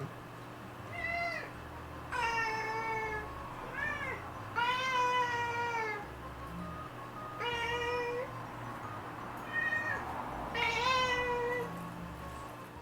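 Domestic cat meowing repeatedly, about seven meows, some short and some drawn out, begging for food. Background music plays underneath.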